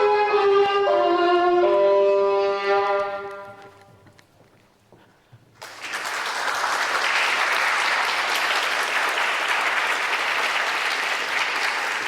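Violin playing a slow descending phrase of long held notes that fades out about four seconds in. After a short silence, applause breaks out suddenly about halfway through and carries on.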